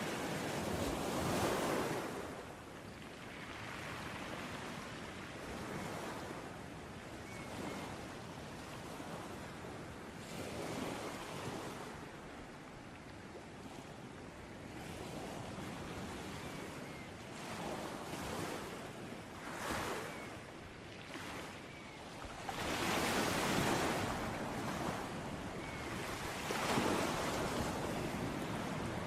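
Sea waves breaking and washing onto a shore, a continuous surf that swells and ebbs every few seconds, loudest just after the start and again in the last quarter.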